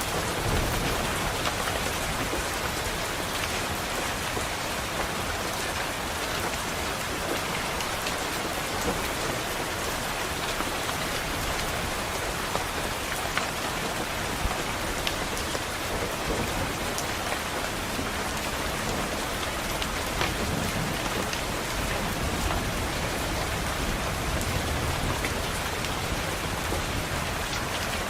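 Steady rain pattering on a window glass, with low thunder rumbling near the start and again later.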